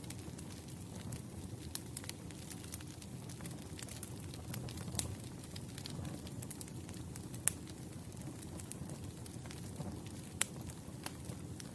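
Wood campfire burning: a steady low rush of flames with scattered sharp crackles and pops, one pop louder than the rest a little past the middle.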